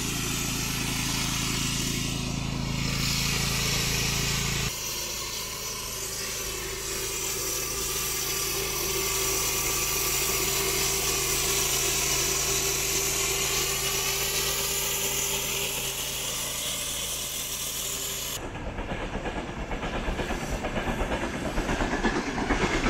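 A steady engine hum, then after an abrupt change a steady hiss. Near the end, after another abrupt change, a train passes with the rhythmic clatter of its wheels on the rail joints.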